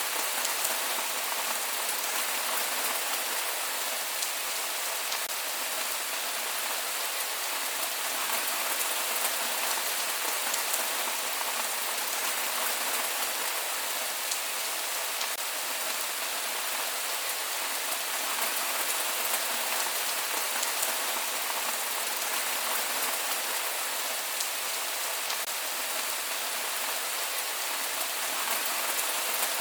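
Steady rain falling, an even hiss of drops pattering on surfaces with no thunder.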